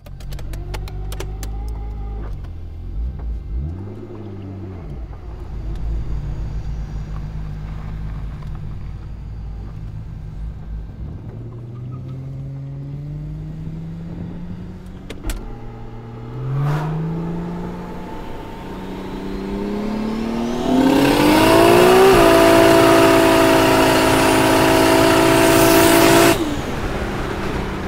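Turbocharged 2JZ-GTE straight-six engine idling with a quick rev blip, then accelerating hard: the pitch climbs, dips once at a gear change and climbs again into a loud, steady high-rpm run. It cuts off abruptly near the end.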